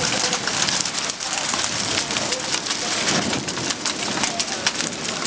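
Rain pouring down: a steady, dense patter of drops striking hard surfaces.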